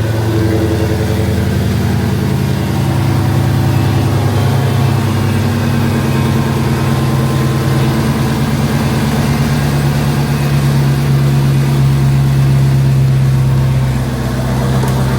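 Supercharged 6.2-litre HEMI V8 of a Dodge Hellcat idling steadily, just started after a jump start with new spark plugs and coil packs fitted to cure a rough idle.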